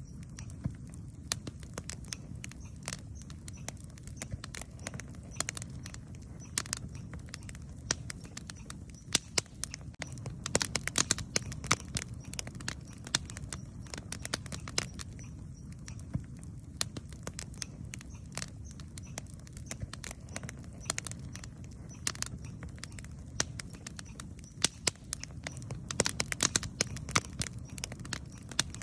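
Wood campfire crackling, with irregular sharp pops and snaps over a low steady rumble; the pops come thicker in two spells, about a third of the way in and near the end.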